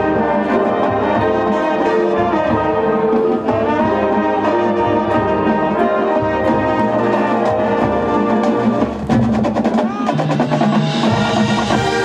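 High school band playing: held brass chords over drums and other percussion. There is a brief break around nine seconds in, and the sound grows brighter and fuller near the end.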